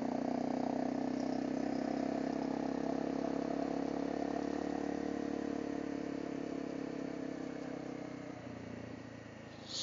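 Honda CRF250L single-cylinder engine running steadily while being ridden, heard muffled through a helmet intercom microphone. Over the last couple of seconds the engine note fades and drops lower, and there is a short high-pitched chirp at the very end.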